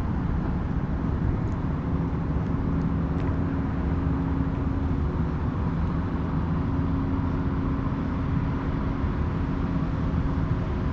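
Steady car engine hum and road noise while driving.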